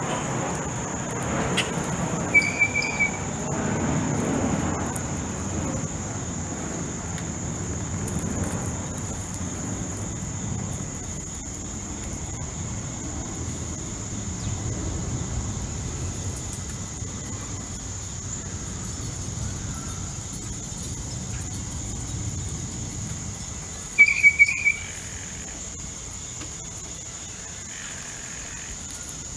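Backyard ambience: a steady high insect drone and a low rumble, with a short bird call about two seconds in and a louder run of three quick bird calls near the end.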